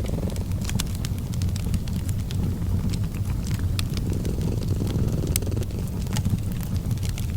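A cat purring steadily, a continuous low rumble, layered with a fireplace crackling in irregular sharp pops.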